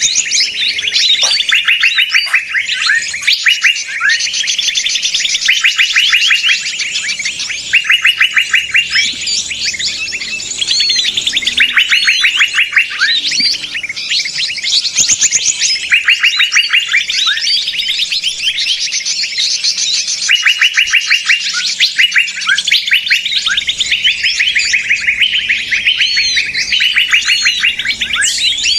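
Bird-lure recording of a noisy mixed chorus of small songbirds: many chirps and fast trills overlapping without a break, with bursts of rapid trilled notes repeating every second or two.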